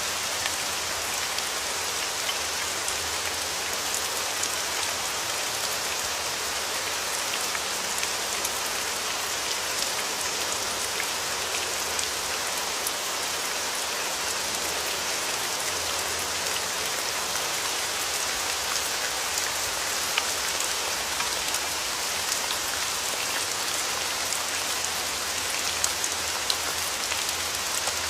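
Steady rain falling on a surface, an even hiss with many small, sharp drop ticks scattered through it.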